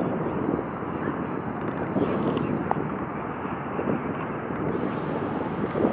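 Steady low outdoor rumble with no clear pitch, level throughout.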